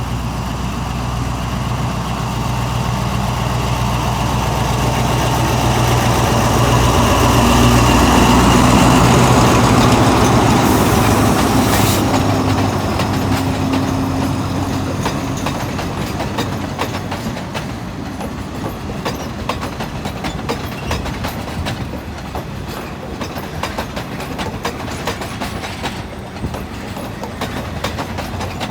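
A diesel train passing close by: its engine swells to loudest about a third of the way in and then fades, after which the wheels of the following cars click rapidly over the rail joints.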